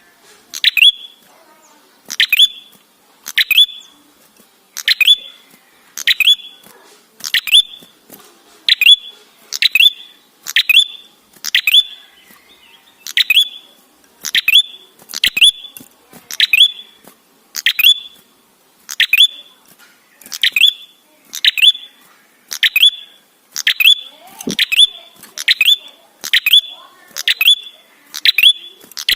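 Red-headed prenjak (a tailorbird) calling over and over in a steady rhythm, a little more than one call a second. Each call is a sharp downward sweep that ends on a short high note.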